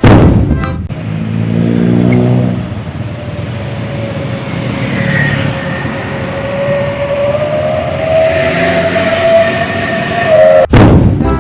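A motor vehicle's engine running amid road noise, its pitch slowly rising as it accelerates, cutting off abruptly near the end.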